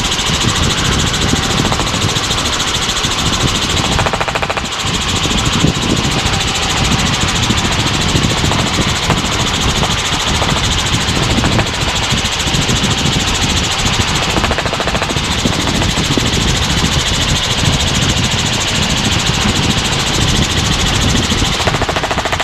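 Helicopter engine and rotor running steadily in flight, heard as a loud, even drone inside the cabin.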